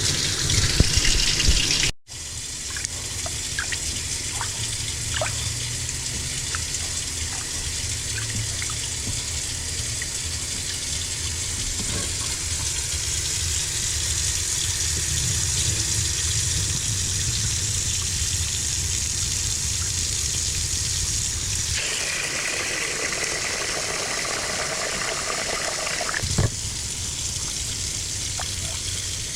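Kitchen tap running steadily as rice is rinsed under it in a pot. The sound of the stream changes about 22 seconds in, and there is a single short knock a few seconds later.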